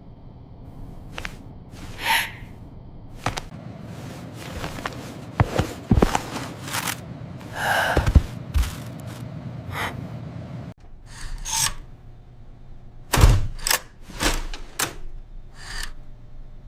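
A string of knocks and thuds, irregular and some louder than others, over a low steady rumble.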